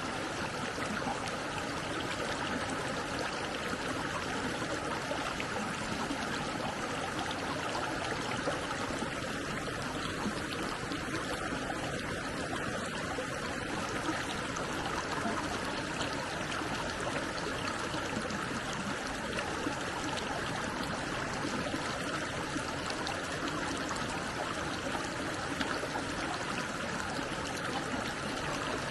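Stream water flowing steadily, an even rushing and trickling.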